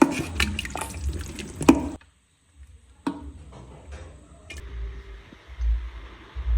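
Heavy rain falling outside, a steady hiss. In the first two seconds it is mixed with a run of clinks and knocks, and a brief drop-out follows.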